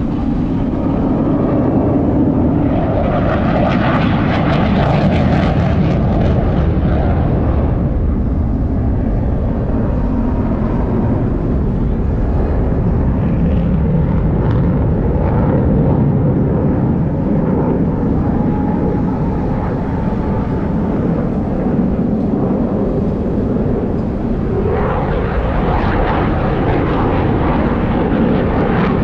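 Jet noise from Blue Angels F/A-18 Super Hornets flying overhead, loud and continuous. It swells twice with a harsher, brighter edge: once a few seconds in as a jet passes close, and again near the end.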